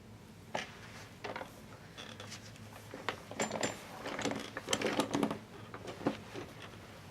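Irregular small clicks and taps, thickening to a busy cluster about four to five and a half seconds in.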